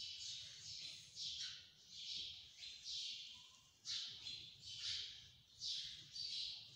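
Small birds chirping over and over, short high chirps about once or twice a second, faint.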